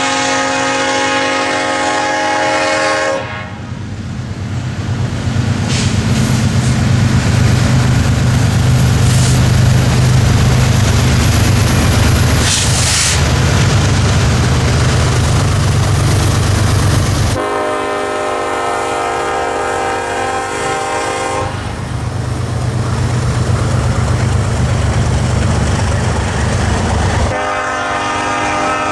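Diesel freight locomotive blowing its air horn, with the low rumble of the passing train between blasts. One blast ends about three seconds in, a longer one sounds about two-thirds of the way through, and another starts near the end.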